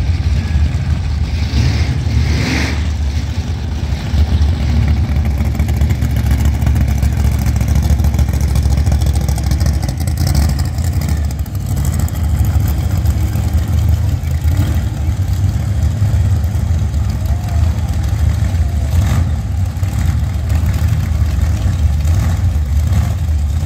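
Loud, steady low rumble of supercharged drag-racing car engines running at the start line, with a brief hiss about two seconds in.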